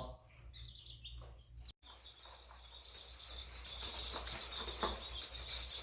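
A group of chicks peeping together in a continuous, wavering high-pitched chorus that grows slightly louder, over a steady low hum.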